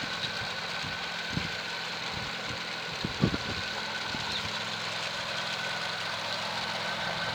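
A steady motor hum, even in level throughout, with a faint higher whine above it and two short knocks, about one and a half and three seconds in.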